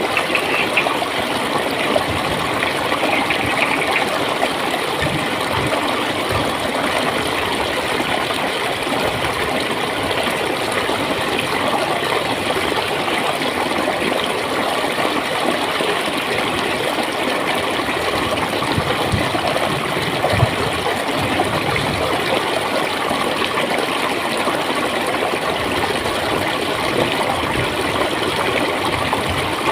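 A clear, shallow stream flowing and gurgling steadily.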